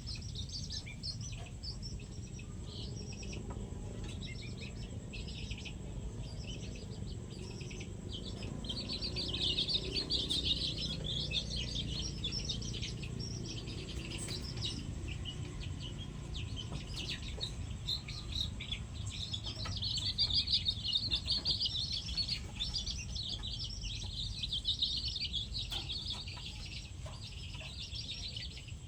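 Many small birds chirping rapidly and continuously, busiest about a third of the way in and again about two-thirds through, over a low steady background rumble.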